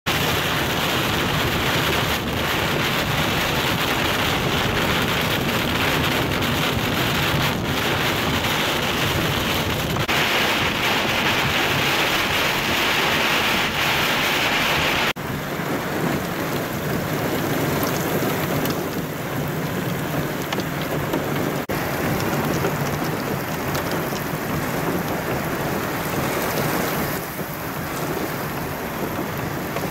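Heavy rain and high wind of a severe thunderstorm, a steady loud hiss of downpour. About halfway through, the sound drops abruptly and turns duller.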